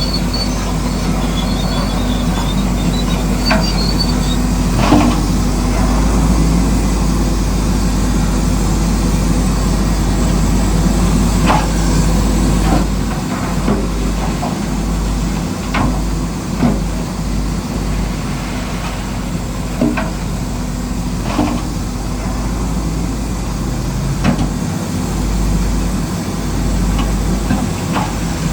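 Heavy construction machinery running steadily, its diesel engine droning, with short sharp knocks of rock every few seconds.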